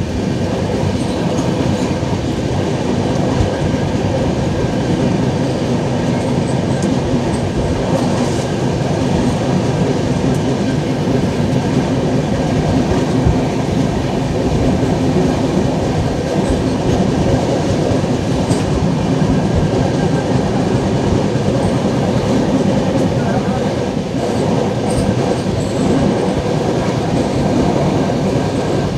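LHB passenger coach running at speed on the track, heard from on board: a steady rumble and rattle of wheels on rail that holds even throughout.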